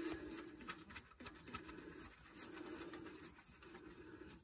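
Faint, repeated low cooing of a bird, with a few light clicks as the oil pan drain plug is started back in by hand.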